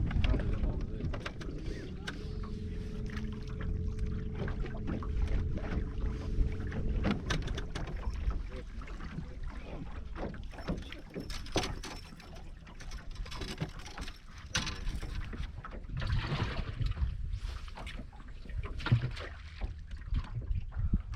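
Fishing boat on the water: a steady motor hum for about five seconds near the start, over a low rumble, with scattered knocks and clicks of gear and hull.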